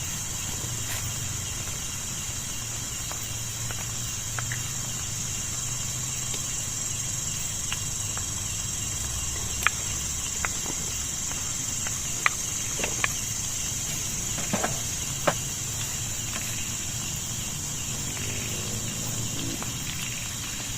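Insects chirring in one steady high-pitched drone, with a few sharp taps or clicks around the middle.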